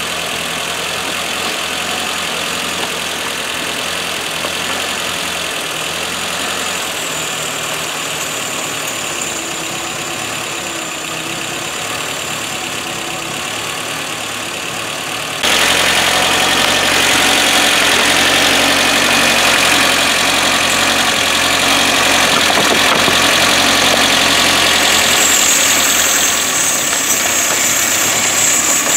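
Car engine idling steadily. About halfway through, the sound jumps abruptly louder as a strong, steady hiss comes in on top of the idle.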